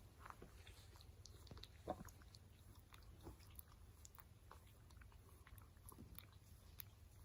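Faint wet smacks and clicks of a dog licking a person's skin, irregular, with one louder smack about two seconds in.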